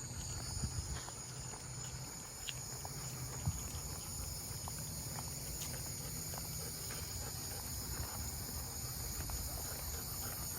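Steady high-pitched insect chorus of crickets or similar evening insects, running without a break, over a low outdoor rumble with a few faint clicks.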